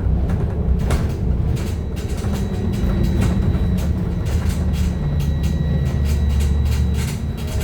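BKM-321 trolleybus under way, heard from inside: a steady low rumble from the running gear and traction drive, with frequent rattles and knocks from the body. A faint high, steady whine comes in about two seconds in.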